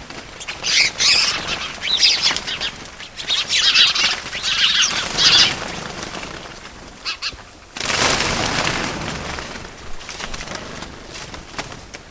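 Birds flapping their wings, with some chirping, in a run of rustling flurries over the first five seconds or so. A sudden louder burst of noise comes just before eight seconds in and fades over a couple of seconds.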